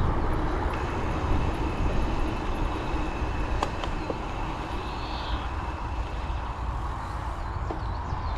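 Steady road traffic rumble mixed with wind buffeting a bike-mounted action camera's microphone while riding, with a faint steady high whine through most of it and a few light clicks.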